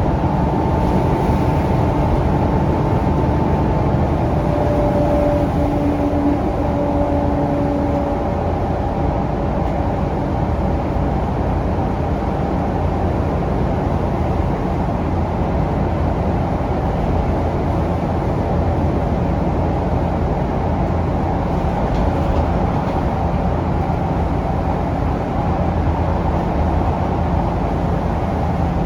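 Onboard ride noise of a Scania K360UA articulated city bus under way: a steady rumble from its Scania DC9 diesel engine and running gear, with a faint whine over the first several seconds that fades away.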